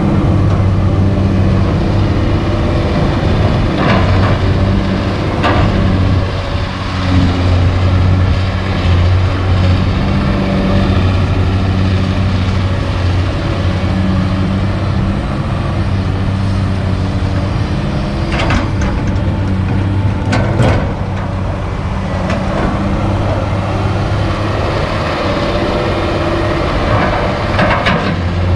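Kobelco SK200 hydraulic excavator's diesel engine running steadily under load, with a few sharp knocks scattered through, the loudest about two-thirds of the way in.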